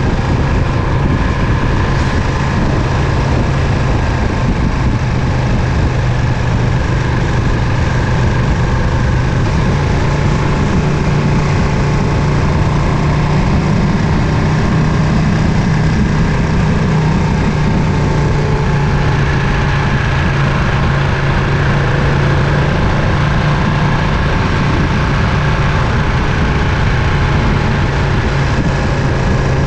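Ducati Panigale V2's 955 cc L-twin engine running at a steady, even pitch with little change in revs.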